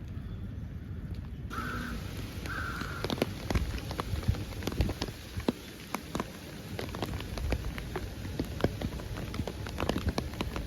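Rain falling, an even hiss with many sharp, irregular drop taps close by. A low rumble sits underneath.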